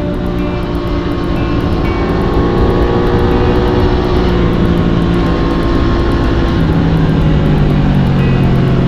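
Sport motorcycle engine running at road speed, its pitch climbing slowly and then easing off and settling lower in the second half. Faint background music rides along with it.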